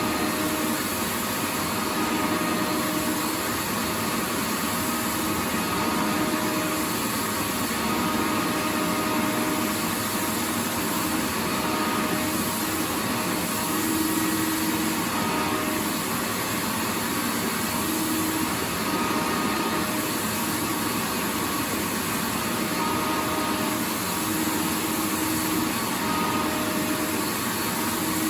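Vacuum cleaner running steadily: a continuous rushing motor noise with no breaks, and a faint hum that comes and goes.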